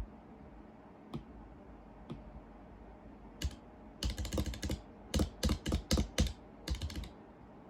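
Keystrokes on a custom-built (DIY) keyboard: a few single key presses spaced about a second apart, then a quick run of presses in short bursts for about three seconds.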